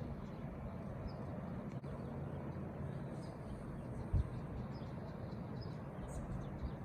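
Steady outdoor background rumble and hiss, with a few faint, short bird chirps and a brief low thump about four seconds in.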